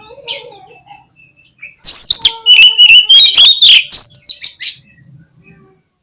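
Oriental magpie-robin (kacer) singing: after a couple of faint notes, a loud burst of quick whistled, sliding and rasping notes about two seconds in, lasting roughly three seconds.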